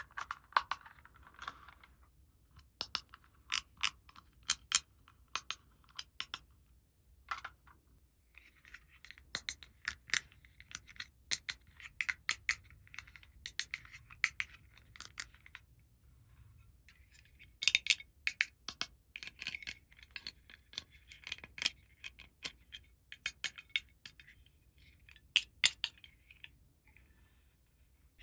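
Small hard plastic toy pieces clicking, tapping and clinking as they are handled and set down, with stretches of scraping in between.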